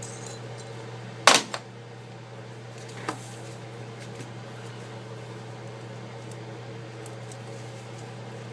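A steady low hum from a fan or appliance, with a sharp knock of a tool or part being set down on the workbench about a second in, a smaller knock just after, and a fainter one about three seconds in.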